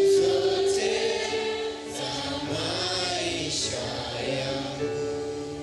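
A congregation singing a slow Swahili worship chorus together, holding long notes, fading gradually near the end.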